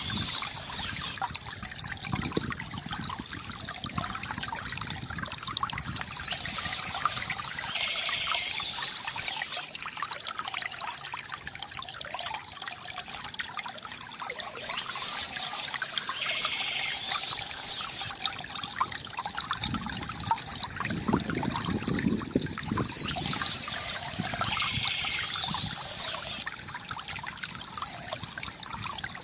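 A stream of water trickling and flowing steadily.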